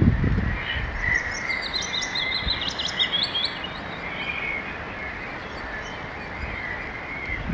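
Songbirds singing: one bird gives a fast, high song phrase of rapidly repeated notes from about a second in until about three and a half seconds, followed by scattered softer chirps.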